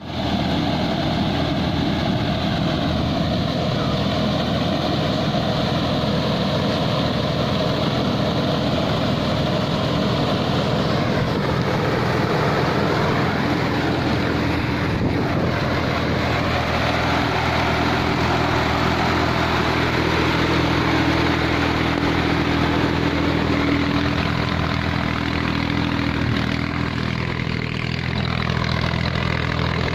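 Tractor engine running steadily, driving a tractor-mounted air-blast sprayer's 24-inch blower fan, which gives a continuous rush of air over the engine note.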